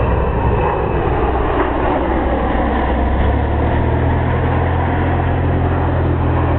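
Loud, steady jet roar from the four turbofan engines of a C-17 Globemaster III transport making a low fly-by, with a deep rumble underneath.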